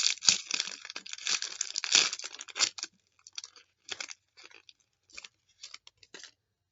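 Trading-card pack wrapper being torn open and crinkled, dense for about the first three seconds, then a few scattered short crackles as the pack is handled.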